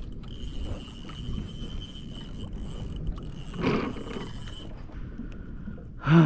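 Water and wind noise on a kayak, with a thin steady high whine that stops about two-thirds of the way in. Near the end comes a loud man's groan as a hooked tuna comes off the line.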